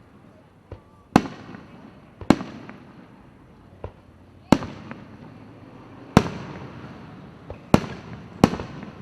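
Fireworks display: aerial shells bursting in sharp bangs at irregular intervals, about six loud ones and a few fainter, each trailing off in an echo.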